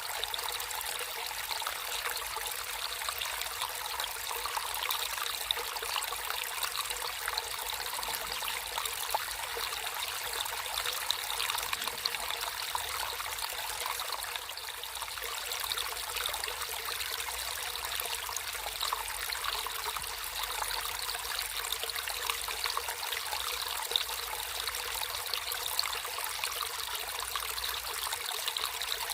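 Water flowing in a natural stream, a steady trickling and splashing with many small droplet flecks.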